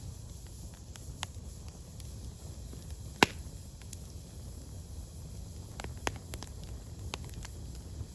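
Firewood burning, crackling with scattered sharp pops over a low steady rumble; one louder pop about three seconds in.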